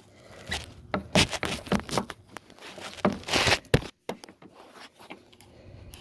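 Hand tools working on a car's fender bolts: irregular clicks and knocks, with a short scraping rush about three seconds in.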